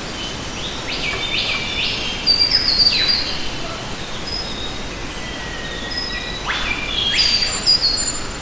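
Birds calling over a steady background hiss of outdoor ambience: two bouts of sharp, quickly falling calls, one about a second in and another near the end, mixed with short high chirps.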